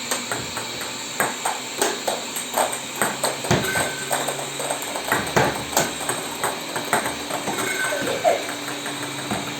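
Tabletop basketball game being played: a quick, irregular run of hard plastic clicks and knocks, two or three a second, over a steady low hum.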